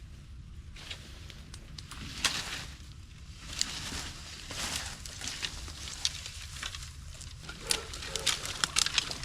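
Wood crackling and snapping: irregular sharp cracks and pops, thicker toward the end, over a steady low rumble.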